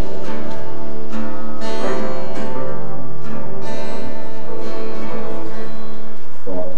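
Live music with an acoustic guitar being strummed.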